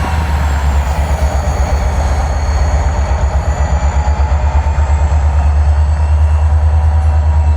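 Freight train passing close by: a steady heavy rumble with thin, faint high squealing tones from the wheels above it.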